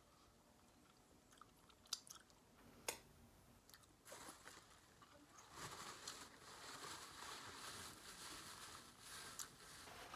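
Quiet close-up chewing of a bite of deep-fried rib, with a couple of sharp mouth clicks in the first three seconds. From about four seconds in, a paper napkin rustles steadily as hands are wiped.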